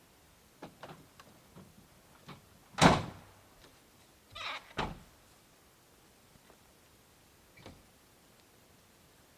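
A few light clicks and knocks, with one loud thud about three seconds in, a short scraping rustle a little later, and one last faint knock near the end.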